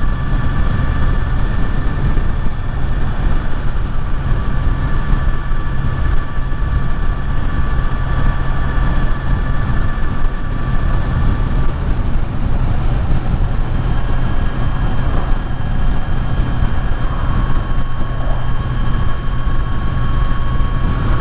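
Kawasaki Z900's inline-four engine running at a steady cruising speed under way, with heavy low wind and road rumble. The engine's pitch holds steady, shifting only slightly about twelve seconds in.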